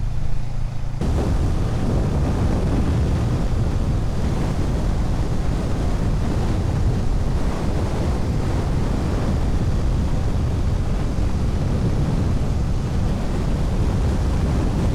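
Heavy wind rushing over the microphone of a motorcyclist riding at speed. About a second in, the motorcycle engine's steady low note is swamped by the wind.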